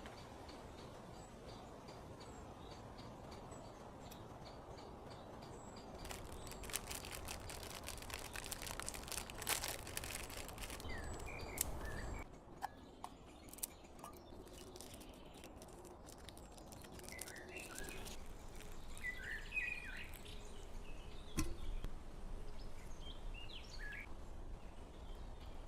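Birds chirping in short calls over a steady background hiss, after a run of sharp clicks and crackles in the middle.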